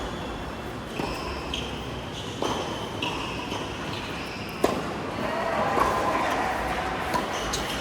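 Doubles racket rally on an indoor court: sharp racket hits about one, two and a half and four and a half seconds in, with shoes squeaking on the court floor between them, echoing in the hall.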